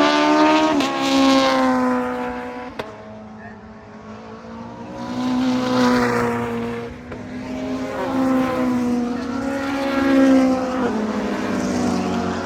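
Race cars passing at speed one after another, engines at high revs with the pitch dropping as each goes by or shifts up; three loud passes, about a second in, around six seconds in and around ten seconds in.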